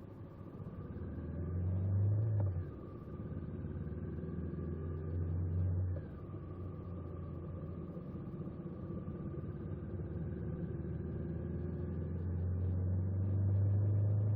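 Honda 400X parallel-twin motorcycle engine under way, accelerating. The sound builds and drops sharply twice, about two and a half and six seconds in, as at gear changes, then builds steadily again.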